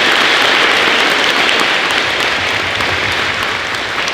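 Audience applauding: dense, steady clapping from a large crowd that eases off slightly toward the end.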